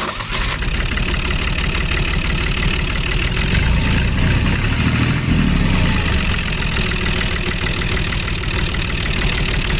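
A DIY miniature tractor's small motor and drive running steadily under load, with a rough, dense noise that swells slightly in the low rumble about halfway through.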